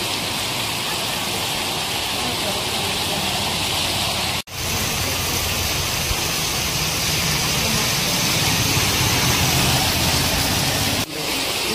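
Heavy rain pouring steadily onto a wet road, a continuous hiss. In the second half an auto-rickshaw's engine and tyres on the wet road add a low rumble as it passes close. The sound drops out for an instant twice.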